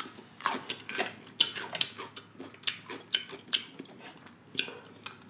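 Chewing a bite of fresh cucumber with rice: a run of irregular crisp crunches, about two to three a second.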